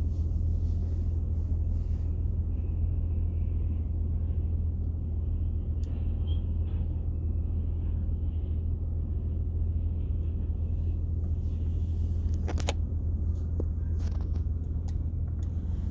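Low, steady rumble of a passing train, with a few sharp clicks or knocks near the end.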